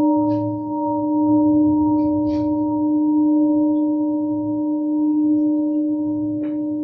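Singing bowl ringing steadily on one held note with its overtones, over a faint wavering hum. A few brief faint ticks sound over it.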